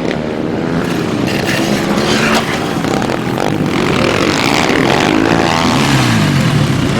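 Dirt bike engines revving, several overlapping, their pitch sliding up and down as the throttle is worked.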